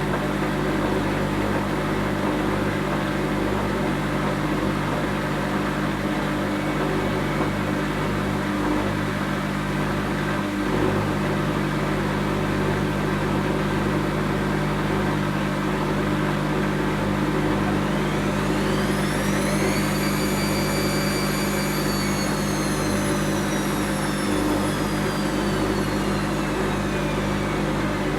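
Whirlpool Indiana 1400 washing machine running with a steady hum. About two-thirds of the way through, its drum motor's whine climbs quickly in pitch, holds briefly, then slowly winds down as the drum speeds up and slows again.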